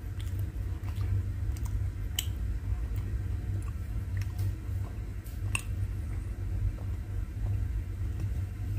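A person chewing a sticky, jelly-like piece of Karachi halwa close to the microphone: scattered small wet mouth clicks over a steady low hum.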